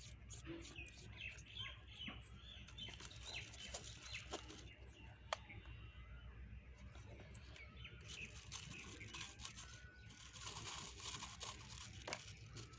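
Faint bird chirping, many short high chirps, with a few sharp clicks and soft rustles over a low hum.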